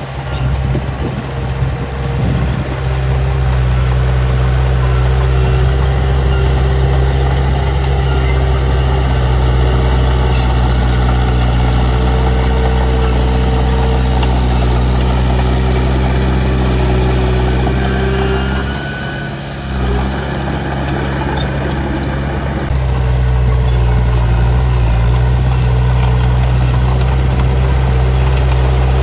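Heavy diesel engine of earthmoving machinery running at a steady speed, with a short drop in level about two-thirds of the way through.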